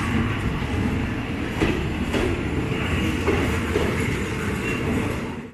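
Passenger train rolling past a station platform: a steady rumble of wheels on rail, with a few sharp clacks as the wheels cross rail joints.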